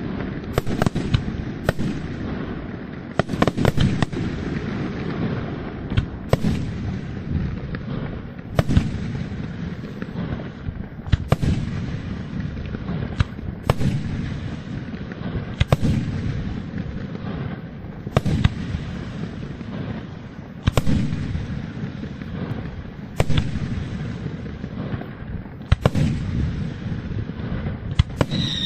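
Aerial fireworks display: shells bursting in a steady barrage, sharp bangs about every one to two seconds over a continuous low rumble of booms and crackle.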